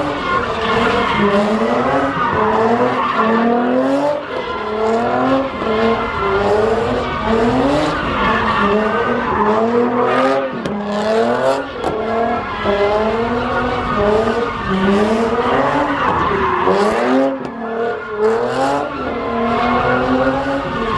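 A car engine revving hard, its pitch climbing and dropping over and over, with tire squeal from a car being driven sideways.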